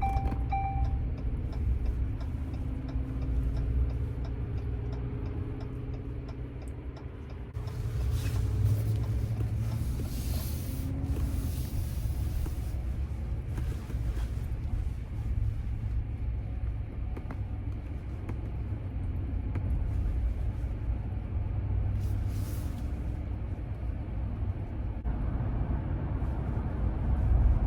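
A Dodge Ram pickup heard from inside the cab while driving: a steady low rumble of road and engine. A louder stretch of tyre and wind hiss comes about eight to fifteen seconds in, and a shorter one a little after twenty seconds.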